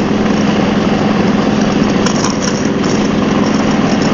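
Harley-Davidson Road Glide's V-twin engine running steadily at road speed, with wind rushing over the helmet-mounted microphone.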